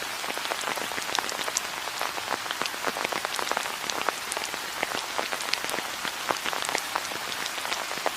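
Rain falling steadily: a constant hiss with many sharp, separate drop impacts close by.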